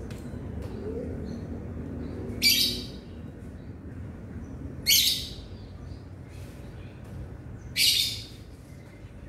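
A bird calling: three short, loud, scratchy high-pitched chirps, about two and a half seconds apart.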